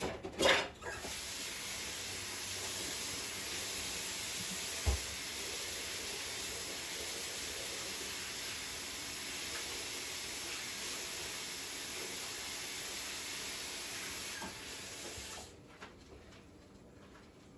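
Kitchen tap running steadily for hand-washing, with a few knocks as it starts and a single thump about five seconds in; the water shuts off near the end.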